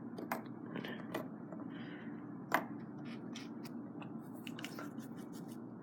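Scattered light clicks and taps of small parts and packaging being handled, over a low steady hum.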